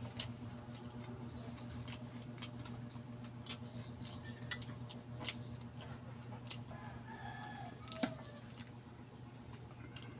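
Close-miked chewing and mouth sounds of eating balut: scattered wet clicks and smacks, with a sharper click about eight seconds in, over a steady low hum.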